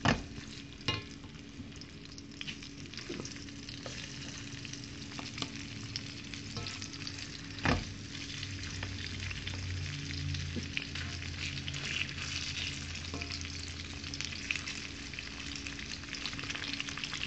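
Boneless chicken pieces sizzling in hot oil in a wok over high heat while being stir-fried, the spatula scraping and clicking against the pan. There are two sharper knocks of the spatula on the wok, one at the start and one about eight seconds in.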